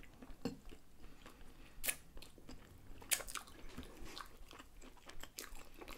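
Two people chewing mouthfuls of blini filled with cottage cheese: soft, scattered wet clicks and smacks of the mouth, with a few sharper clicks about two and three seconds in.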